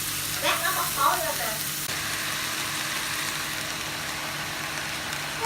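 Food sizzling in hot oil in a frying pan, a steady crackling hiss.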